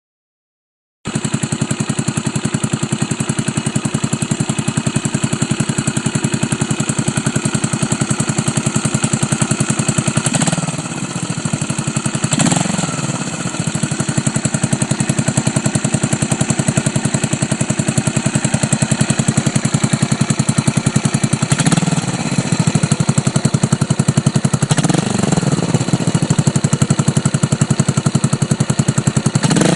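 Yamaha SR400 FI's single-cylinder engine idling through a Supertrap muffler, a steady even beat that starts about a second in, with the beat briefly changing a few times.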